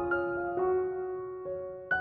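Soft background music on piano or electric piano, single notes and chords struck a few times a second and left to ring.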